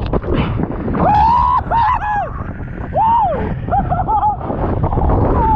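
Storm-force wind buffeting a microphone, a loud rough rumble. Over it are several short high tones that glide up and down.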